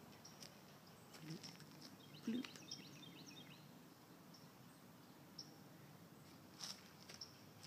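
Faint outdoor ambience with scattered high chirps from small birds, including a quick run of chirps a couple of seconds in, and a few soft bumps and clicks.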